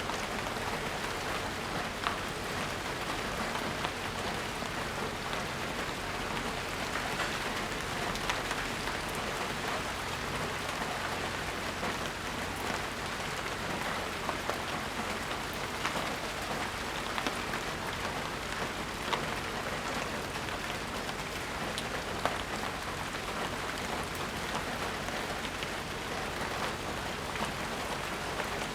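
Steady rain falling, a dense even hiss with frequent small sharp drip and drop impacts scattered through it.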